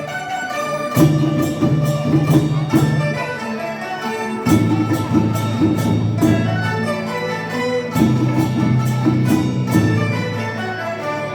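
A Chinese traditional orchestra plays a flowing melody over held low notes, with a regular light percussive beat.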